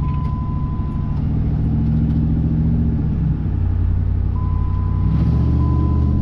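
Car engine running while driving, its pitch shifting as the speed changes, with a thin steady high tone that stops about a second in and comes back near the end.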